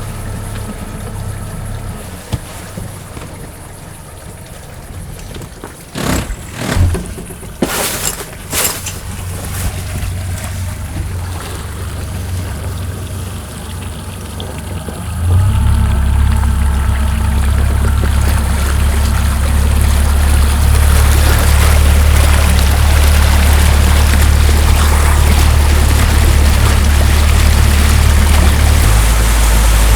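Pontoon boat motor idling, with a few knocks about six to nine seconds in. About halfway through, the motor is throttled up and runs steadily louder as the boat gets under way, with water rushing past growing louder toward the end.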